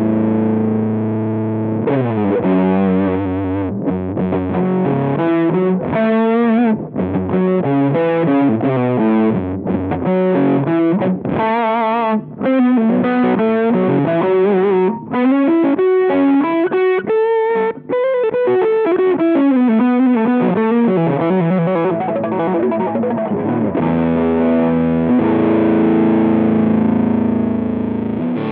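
Electric guitar played through a Rowin LEF-606 fuzz pedal: a held fuzzed chord, then a quick run of notes, then a lead line with bent notes sliding up and down, settling into a long sustained chord near the end.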